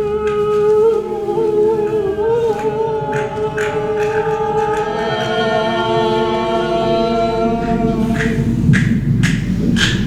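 Music of singing voices holding long, sustained notes.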